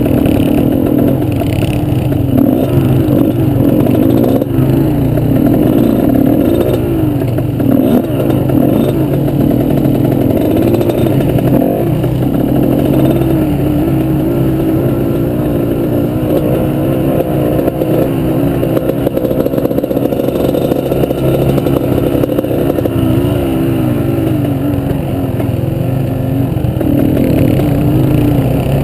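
Off-road motorbike engine running loud, its pitch rising and falling continually as the throttle is worked over rough ground.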